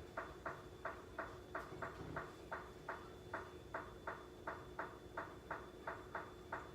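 Farberware air fryer toaster oven running: a steady ticking, about four ticks a second, over a faint steady hum, typical of its timer counting down once the cooking time is set.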